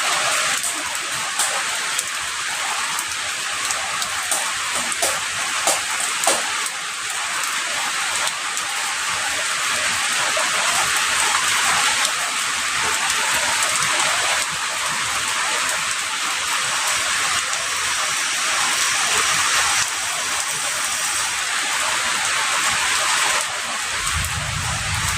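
Heavy rain falling steadily as a dense hiss, with scattered sharper drop ticks over the first several seconds. A low rumble joins in near the end.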